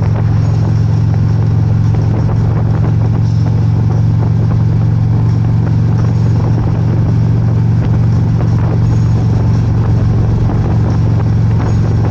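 Motorcycle engine running at a steady speed, a constant low drone that holds one pitch, with road and wind noise over it.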